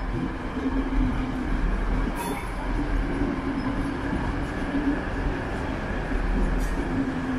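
Passenger train running on the tracks: a steady rumble with a wavering hum, and two brief clicks, about two seconds in and near the end.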